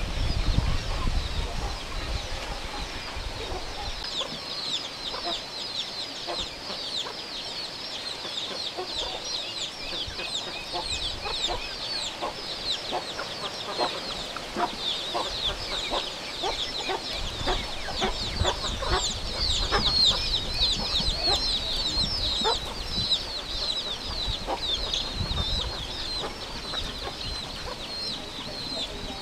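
A brood of ducklings peeping continuously, many short high-pitched downward-sliding peeps overlapping, with a low rumble underneath.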